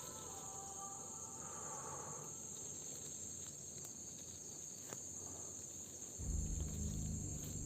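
Crickets keeping up a steady, high continuous trill. About six seconds in, a low rumble comes in under it and becomes the loudest sound.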